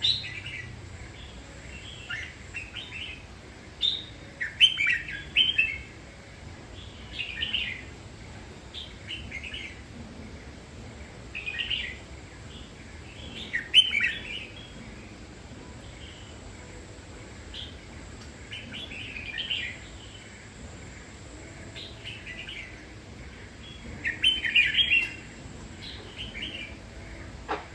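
Red-whiskered bulbul singing short, chirpy phrases of about a second each, repeated every few seconds with pauses between.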